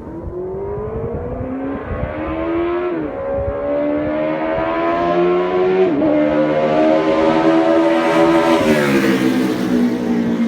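Kawasaki Z1000 inline-four motorcycle engine and exhaust pulling up through the gears: the pitch climbs, drops sharply at upshifts about three and six seconds in, climbs again, then falls off as the throttle eases near the end.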